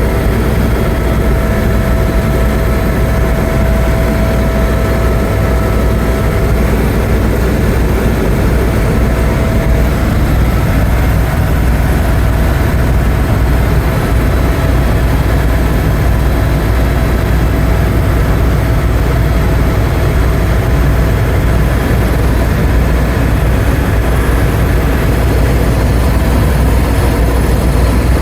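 Tour helicopter in flight: its turbine and rotor make a loud, steady drone with a deep throb underneath.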